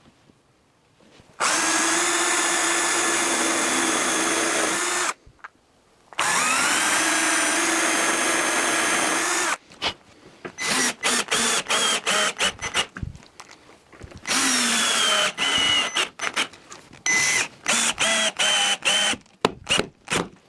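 Power drill running: two steady runs of a few seconds each, the second spinning up in pitch as it starts, then a long string of short stop-start trigger bursts that speed up and slow down.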